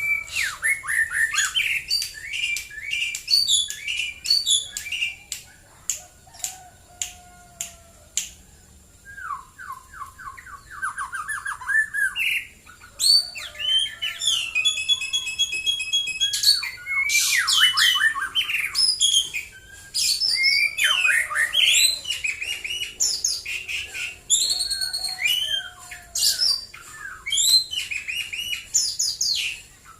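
White-rumped shama singing a long, varied song of quick whistled phrases, with a run of sharp clicks, a series of repeated falling notes and a fast trill, broken by short pauses.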